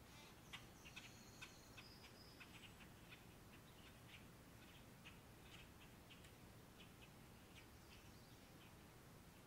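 Faint small-bird chirps and ticks, coming irregularly, with a couple of thin, high, held notes in the first two seconds.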